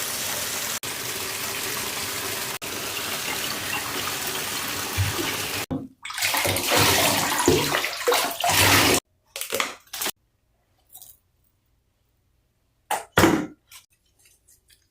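Water running into a bathtub, steady for about six seconds, then a rougher, more uneven stretch of running water for about three seconds. After that come a few short noises with silence between.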